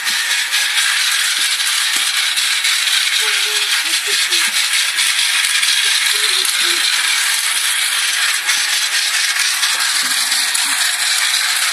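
A train in motion, with continuous rattling and clattering made up of many small clicks over a steady rushing noise.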